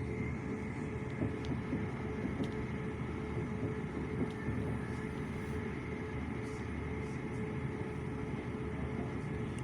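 Steady running noise of a passenger train heard from inside the carriage: a low rumble under a constant hum, with a few faint clicks.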